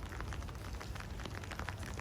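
Steady rain falling, a constant hiss dotted with many small drop ticks, over a low rumble.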